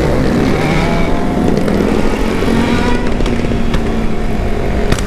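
Motorcycle engines running loudly and steadily on a group ride, their pitch shifting a little early on, with a few sharp pops from about three seconds in.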